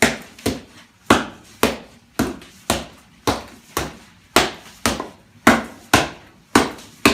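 Mochi being pounded with a wooden mallet in a mortar: a steady run of dull thuds, about two a second, alternating louder and softer strikes.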